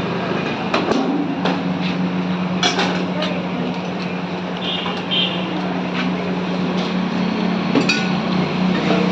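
Metal cooking utensils knocking and clinking at a street food stall, a few sharp strikes scattered through, over a steady low hum and street noise.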